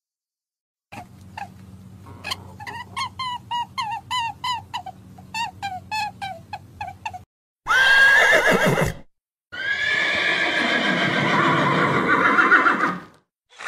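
Horse calls across separate edited clips: first a run of short, repeated pitched calls, each falling in pitch, about three a second. Then, after a break, two whinnies: a short one, and a longer wavering one of several seconds.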